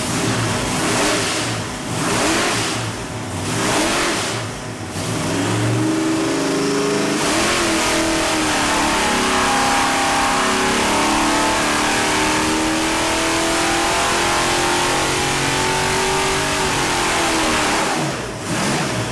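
Big-block Chevrolet 572 V8 running on an engine dyno. A few throttle blips come first, then a long full-throttle pull of about ten seconds with the pitch climbing slowly. Near the end the revs drop off.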